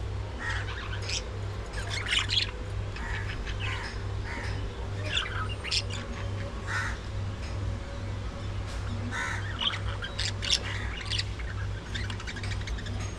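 Budgerigars in an aviary giving many short, overlapping chirps and squawks. A low, evenly pulsing hum runs underneath.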